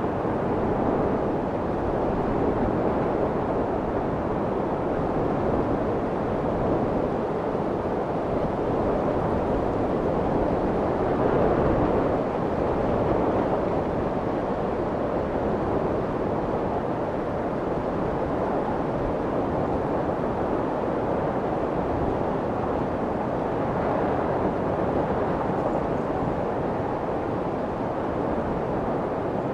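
Steady, muffled white noise for soothing a baby, a continuous rushing hiss weighted toward the low and middle range with little treble, swelling and easing slightly now and then; it is meant to imitate the sound of the womb.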